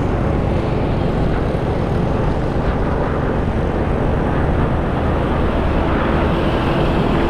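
Motorcycle being ridden on the road: a steady rush of wind, engine and road noise, with a faint steady hum coming up near the end.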